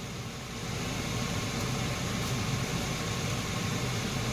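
A Hyundai Tucson running with the key on, heard inside the cabin: a steady low hum under an even hiss.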